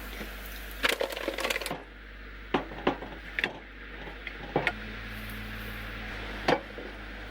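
A series of sharp clicks and knocks, a quick cluster about a second in and then single ones spaced through the rest, over a steady low hum.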